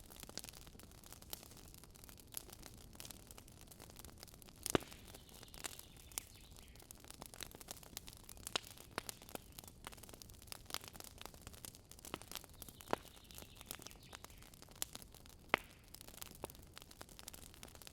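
Wood fire crackling: irregular sharp pops and snaps over a faint steady hiss, with two louder pops about five seconds in and about fifteen seconds in.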